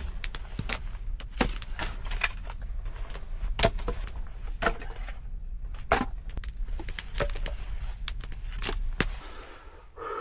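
Sharp, irregular wood cracks and snaps, two or three a second, over a low steady rumble that fades near the end.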